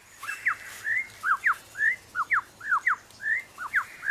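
Superb lyrebird singing: a quick run of clear whistled notes, each sweeping sharply down or up in pitch, about three or four a second.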